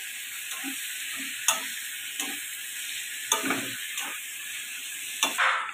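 Chicken pieces sizzling in oily spice paste in a kadai while a metal spatula scrapes and knocks against the pan, about six strokes, roughly one a second. This is the meat being browned (kosha) in the masala.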